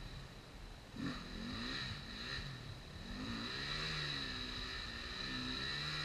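Distant off-road motorcycle engine revving up and down over and over as the rider picks a way along a rough, muddy trail, with a steady high-pitched whine behind it.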